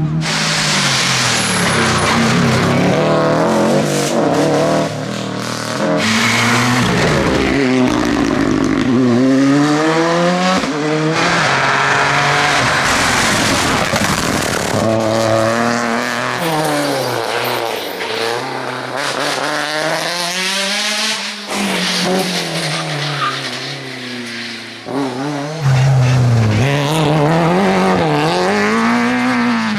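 Rally cars driven flat out on a closed stage, engines revving high and dropping away again and again through gear changes and corners. There are several abrupt jumps from one car to the next.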